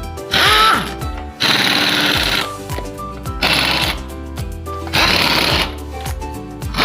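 Background music with a steady bass beat. Over it, several short bursts of a pneumatic impact wrench hammering come at uneven intervals; these are the loudest sounds.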